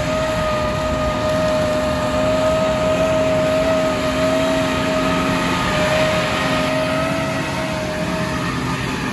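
A motor's steady whine, held at one pitch for the whole stretch over a rough mechanical rumble, cutting off with a short drop in pitch at the end.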